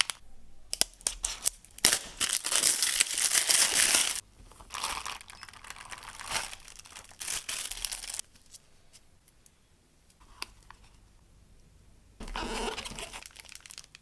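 Packaging being torn open and crinkled by hand, in irregular noisy bursts with small clicks. The loudest stretch is about two to four seconds in, and another burst comes near the end.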